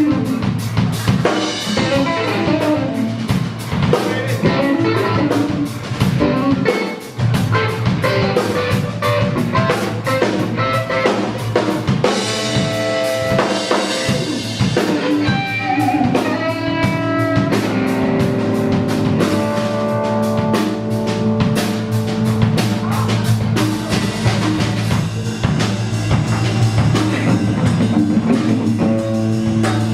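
Rock band playing: electric guitar lead with bent notes over a drum kit and bass, with a brief drop in the music about seven seconds in.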